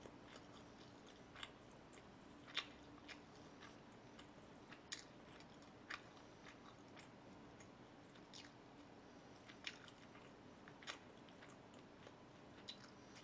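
Close-miked chewing and mouth sounds: soft, irregular wet clicks and smacks every second or so while eating, over a faint room hum.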